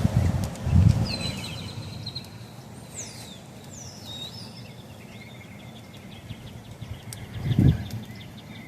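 Outdoor ambience with a bird chirping several times in quick gliding calls. Low rumbles come near the start and again near the end.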